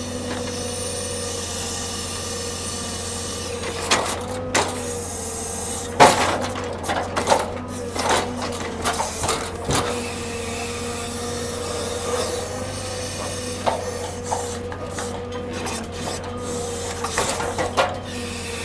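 Heavy machinery unloading a log truck, running steadily with a low hum and a steady whine, while a series of knocks and clanks comes from about four to ten seconds in, the loudest about six seconds in, with a few more near the end.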